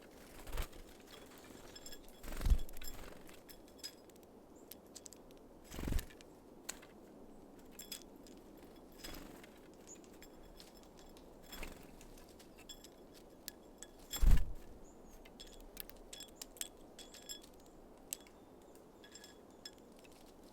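Small birds at a seed feeder: scattered light taps and clicks of pecking and hopping on the feeder, with three heavier thumps of birds landing or knocking against it.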